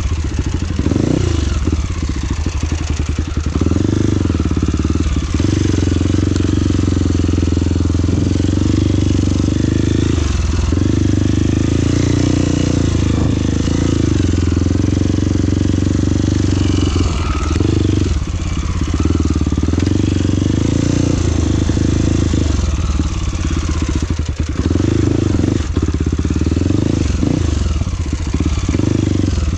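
Trail motorcycle engine running while riding, the throttle easing off briefly every few seconds and then picking up again.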